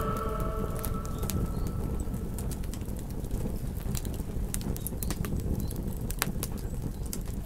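Campfire crackling, with many sharp irregular pops over a low steady rumble. The tail of a wolf's howl fades out during the first two seconds.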